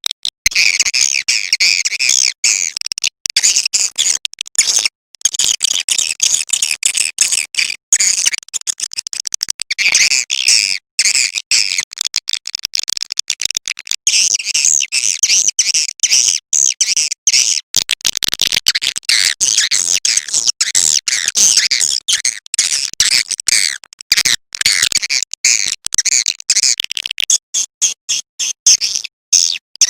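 Recorded swiftlet call sound, the lure played to draw edible-nest swiftlets to a nest house: dense, rapid, high-pitched chirping and twittering of many birds. It is broken by brief dropouts every second or few.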